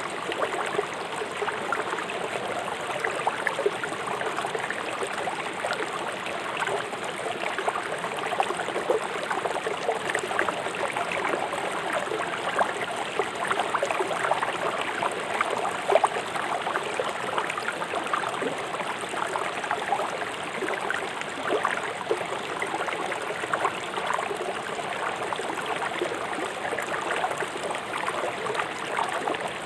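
River water rushing over rocks, a steady splashing, gurgling flow.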